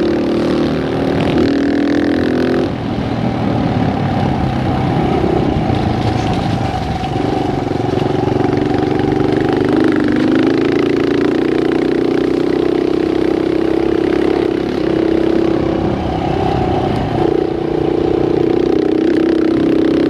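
Dirt bike engine running while being ridden, its note rising and falling with the throttle and dropping back several times.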